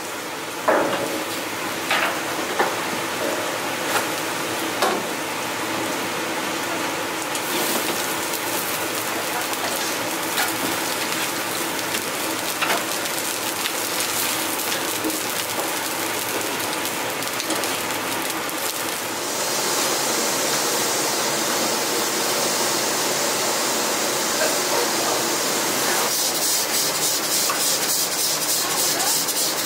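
Kimchi pancakes frying in oil on a flat-top griddle: a steady sizzle, with a few light clicks of a ladle in the first five seconds. About two-thirds of the way through the sizzle grows louder and brighter.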